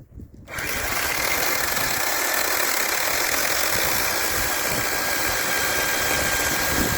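An engine running steadily, starting abruptly about half a second in.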